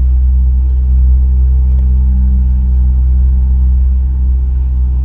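2000 Ford Windstar's 3.8-litre V6 engine running steadily at a loud, even rumble. The engine has set a cylinder 3 misfire and lean codes on both banks, and runs like it has an intake leak, in the mechanic's view.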